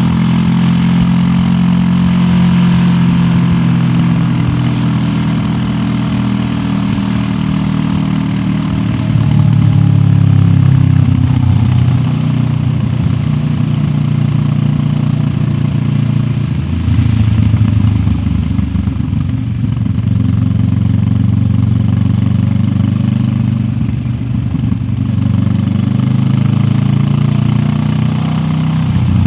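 QJ Motor SRT 700X parallel-twin motorcycle engine running on the move, heard through the rider's backpack. Its pitch steps down and climbs again several times as the throttle and gears change.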